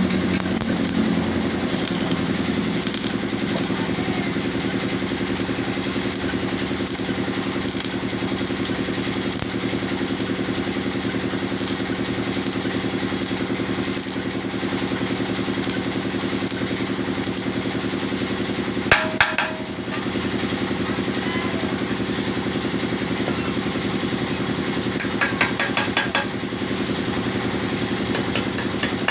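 Engine idling steadily. A run of light, regular ticks sounds through the first half, a single metallic knock with a short ring comes about two-thirds of the way in, and a few more clicks follow near the end.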